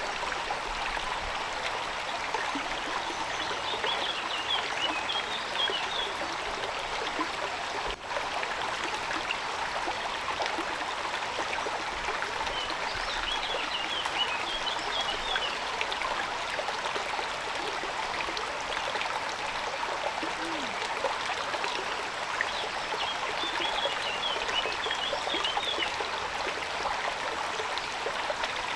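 Steady rush of falling rain. A short run of high chirps comes three times, about ten seconds apart.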